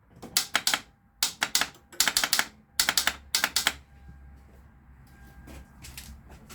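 2002 Toyota Solara's starter solenoid chattering in four bursts of fast clicks as the key is turned, with no cranking: the starter won't engage, and the owner suspects low power from a poor battery or starter connection. A faint low hum follows.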